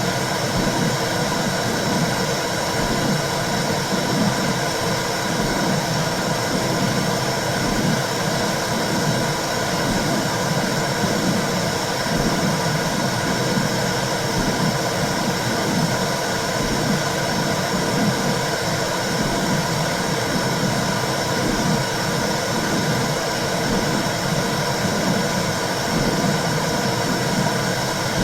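Womb sound: a steady whooshing noise with a low, soft rhythmic pulse running through it, like maternal blood flow and heartbeat as heard inside the uterus.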